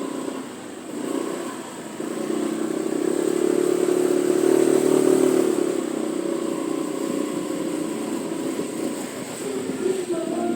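Motor scooter engine running in street traffic. It grows louder a couple of seconds in, is loudest about halfway, then settles to a steady run.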